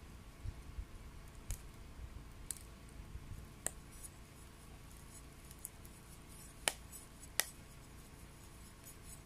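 Wet wood crackling and popping as it burns in a homemade secondary-combustion stove: scattered sharp pops over a low steady rumble, the two loudest close together about two-thirds of the way through.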